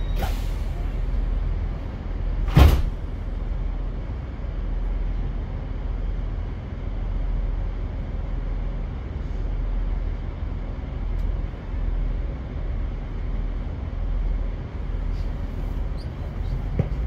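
Diesel passenger train standing at a platform, heard from inside the carriage: a steady low engine hum, with one sharp thump about two and a half seconds in.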